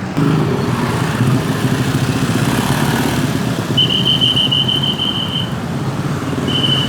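Engine running steadily, with a high thin squeal-like tone lasting under two seconds about four seconds in, and returning briefly near the end.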